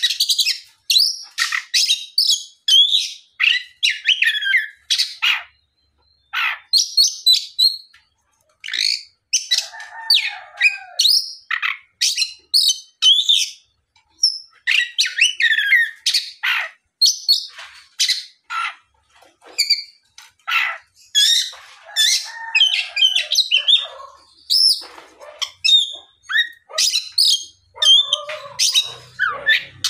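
Oriental magpie-robin in full song: a long run of varied, loud whistles and rapid chattering notes, broken by short pauses. This is the kind of song used to provoke other magpie-robins to answer.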